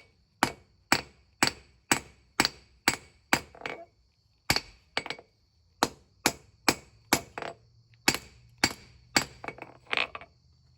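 A hammer striking hot spring steel on an anvil, about two blows a second, drawing out a small knife's tang. The blows pause briefly about four seconds in and stop near the end.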